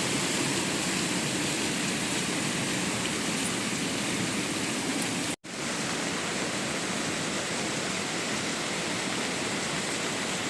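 Steady rushing of water, an even hiss with no rhythm, cut off for a split second about five seconds in before it resumes.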